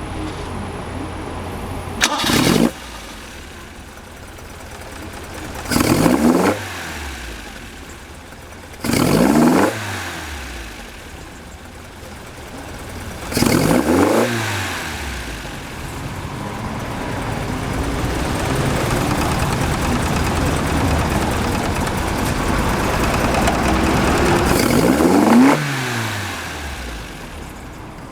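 Toyota TE27 Sprinter Trueno's 2T-G twin-cam four-cylinder engine idling and being blipped four times, each rev falling quickly back to idle. It is then held at rising revs for about ten seconds before dropping back to idle near the end.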